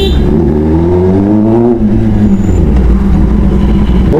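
Kawasaki ZX-10R inline-four engine heard from the bike itself at low road speed. The revs climb for about a second, then drop off sharply as the throttle closes, and the engine runs on at low revs while the bike slows.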